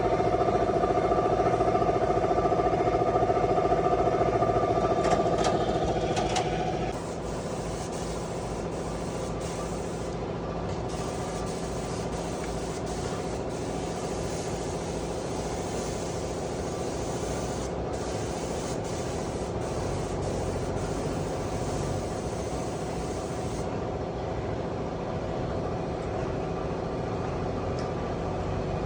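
An engine running, louder and higher for about the first seven seconds, then dropping to a lower, quieter steady speed.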